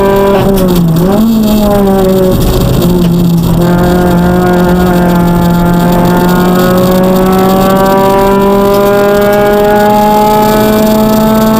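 Citroën DS3 R1 rally car's four-cylinder engine running hard at high revs, heard from inside the cabin. The revs dip and pick up again about a second in, then hold a long pull with the pitch slowly rising.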